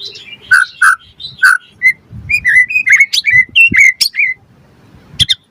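White-rumped shama (murai batu) singing a varied series of short whistled notes and quick phrases. The song pauses for about a second near the end, then resumes with a couple of notes.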